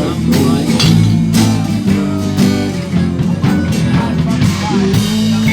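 Live band playing a blues groove without vocals, guitar prominent over steady low bass notes and regular beats.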